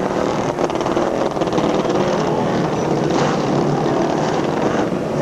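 Several motorcycle engines running and revving together, a steady din with a few faint knocks mixed in.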